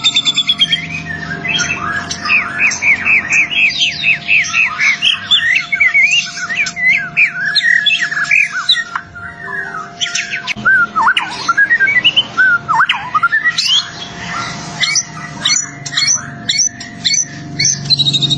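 White-rumped shama singing a fast, varied song of whistled notes, slurs and sharp clicks, with a few deep falling whistles about two-thirds of the way in. A faint steady hum runs underneath.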